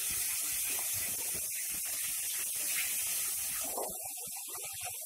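Garlic and coriander paste sizzling in hot oil in a metal kadhai as a steel ladle stirs it through the masala, with light scraping against the pan. The sizzle softens a little about four seconds in.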